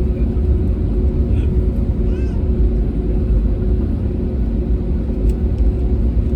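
Steady low rumble and hum inside the cabin of an Airbus A320neo with Pratt & Whitney PW1100G geared turbofan engines running on the ground.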